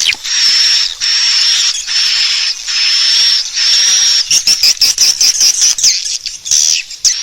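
Swiftlet calls played as a lure for a swiftlet house. A run of buzzy, hissing chirps, each just under a second long, breaks about four seconds in into quicker, shorter twittering.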